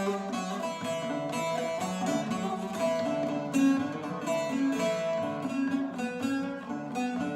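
Instrumental break in a Turkish folk song: plucked string instruments, in the manner of the bağlama, play the melody with no singing.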